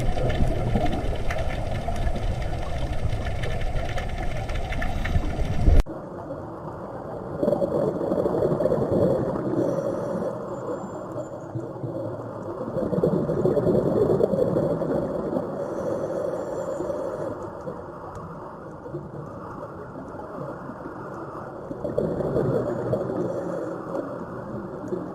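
Underwater sound on a scuba dive. A dense water rush is followed, after an abrupt cut about six seconds in, by swells of bubbling every several seconds, typical of a diver's exhaled breath leaving the regulator.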